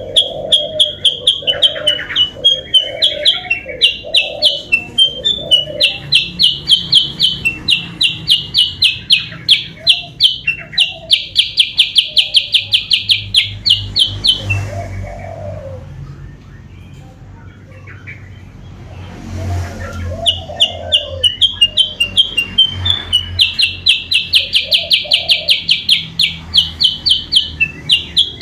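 Kutilang sutra lure call: a fast, rhythmic series of high chirps, about four to five a second. The series stops for several seconds midway, then starts again.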